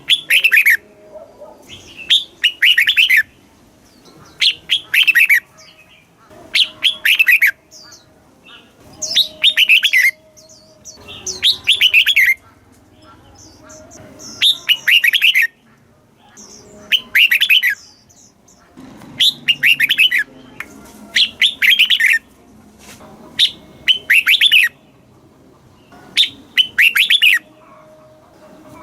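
Red-whiskered bulbul singing: short phrases, each a quick run of falling notes, repeated about every two seconds.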